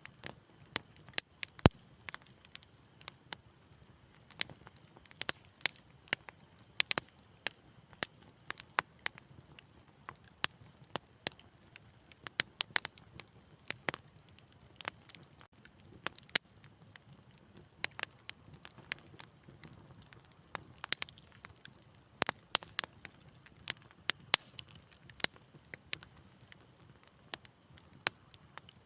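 Wood fire in a fireplace crackling: irregular sharp pops and snaps, several a second, over a faint low rumble of flame, with one louder pop a couple of seconds in.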